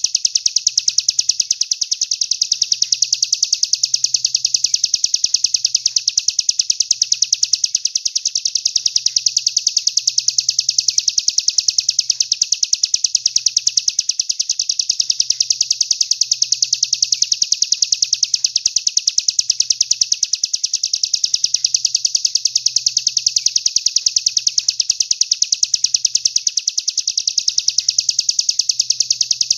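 Songbird masteran recording: a continuous, very rapid, even trill, high-pitched and unbroken, the kind of 'tembakan' song phrase played to train contest songbirds.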